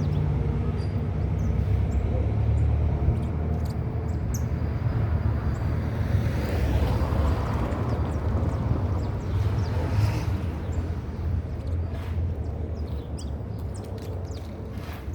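Steady low hum of a vehicle engine running close by, with a swell of noise in the middle as a vehicle passes. A few short, high bird chirps sound over it.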